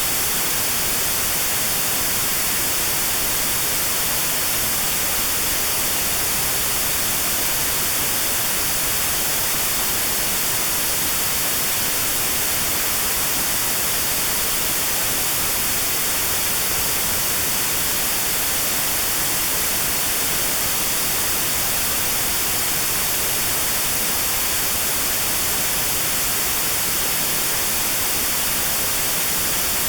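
Steady white noise with a narrow notch cut out around 4 kHz, the notched sound therapy used against tinnitus at that pitch. It is an even hiss, strongest in the high range, and does not change.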